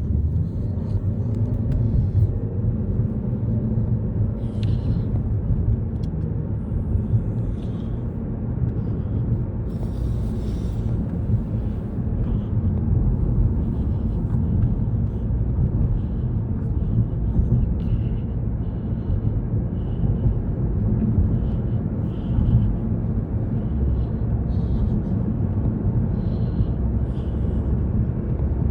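Steady rumble of tyres and engine heard inside the cabin of a car driving along a highway.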